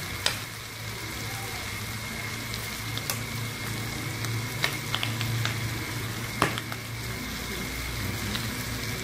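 Squid and sliced chilies frying in a steel wok: a steady sizzle with scattered sharp pops and clicks, over a low steady hum.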